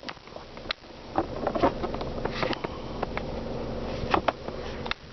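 Steady hum of the 2006 Saturn Ion's 2.2-litre Ecotec four-cylinder idling, heard from inside the cabin. A scatter of sharp clicks and knocks from cabin fittings being handled sits over it, and these are the loudest sounds.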